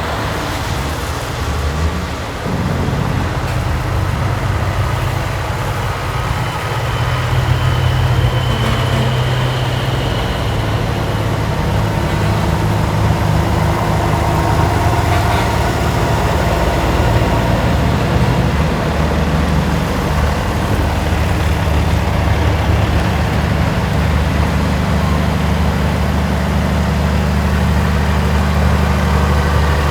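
A large engine running steadily, a low, even drone.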